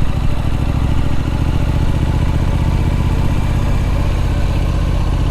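Triumph Street Scrambler's 900 cc parallel-twin engine running at an even, steady speed while the motorcycle is ridden along, its low firing pulse picked up by the rider's on-bike microphone.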